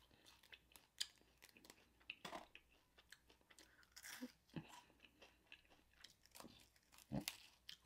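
Faint chewing and biting of crispy fried chicken wings: scattered soft crunches and mouth clicks, with a slightly louder crunch near the end.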